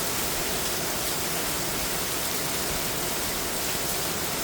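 Heavy downpour, a steady dense roar of rain hammering down and pouring off the roof.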